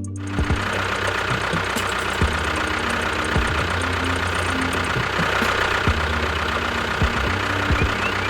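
Small motor running steadily, with a low hum and a constant whine from its gearing.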